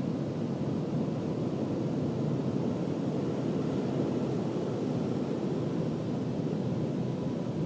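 Automatic car wash equipment running, a steady unbroken rushing noise with a faint constant whine.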